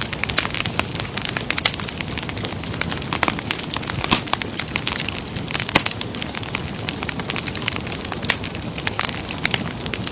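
Wood fire burning in a fireplace: many irregular sharp crackles and pops over a steady hiss of flames.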